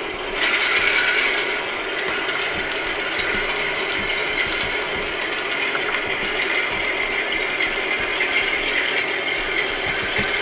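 A LokSound V5 decoder's Class 47 diesel engine sound, played through the model locomotive's small speaker, with the model's running gear rattling and clicking. About half a second in the engine note rises and is loudest for a second or so as the locomotive pulls forward, then runs on steadily.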